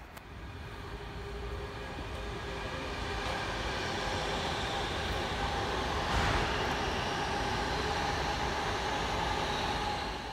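A train running past on the main line, its rail noise with several steady high tones building over a few seconds to a peak about six seconds in, then cutting off abruptly near the end.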